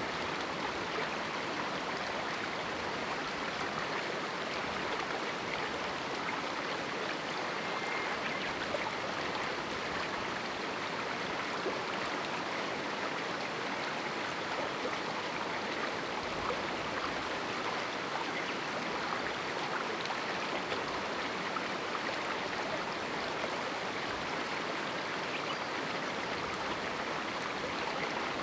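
Small canyon river flowing over rocks: a steady rushing and babbling of water.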